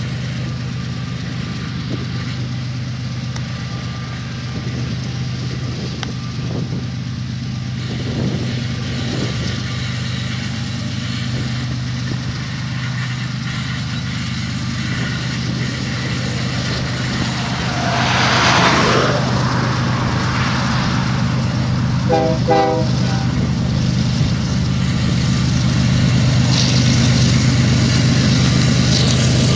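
BNSF diesel locomotives hauling a loaded coal train, their engines droning steadily under load on the grade. A brief, pulsing horn sounds about three-quarters of the way through.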